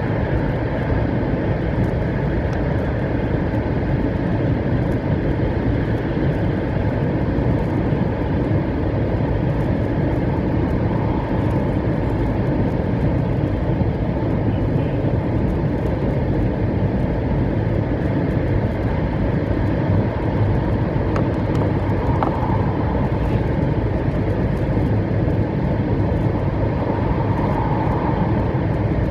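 Steady running noise of a 700 series Shinkansen train heard inside the passenger cabin: an even rumble from the wheels and the track.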